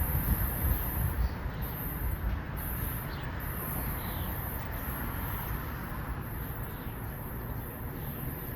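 Outdoor railway station platform ambience: a steady low rumble with a few faint, short chirps scattered through it.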